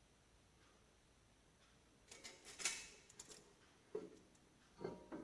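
Near silence for about two seconds, then a short cluster of light clicks and scrapes from tools or metal parts being handled while measuring, with two more single clicks near the end.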